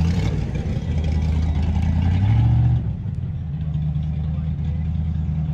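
Ford 5.0-liter Mustang V8 idling, with a short rise in engine note about two seconds in that drops back sharply to a steady idle.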